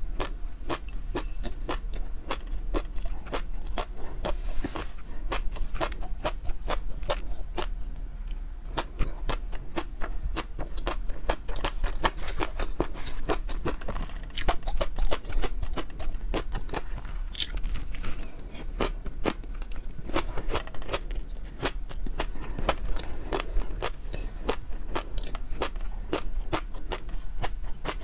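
Close-up eating sounds: steady chewing with many quick clicks and crackles, several a second.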